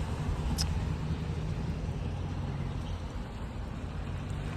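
Steady low outdoor rumble, with one faint click about half a second in.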